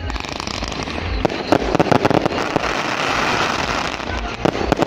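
Fireworks salute going off: a dense run of bangs and crackling from exploding shells, with a cluster of sharper bangs near the end.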